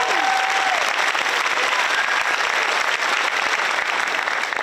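Audience applauding steadily, with a few voices cheering in the first second.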